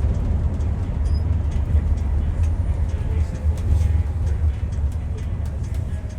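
Steady low rumble of a vehicle in motion, heard from inside its cabin.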